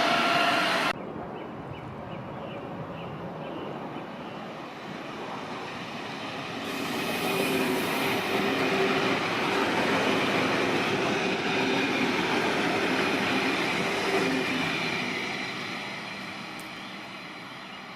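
ICE high-speed train passing at modest speed: its rumble swells from about six seconds in, holds with a steady whine for several seconds, then fades away. About a second in, a louder train sound cuts off abruptly.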